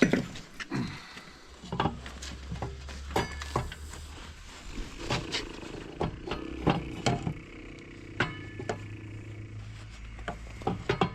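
Metal parts and hand tools knocking and clanking at irregular intervals as a corn head is reassembled, with a steady low hum starting about a second and a half in.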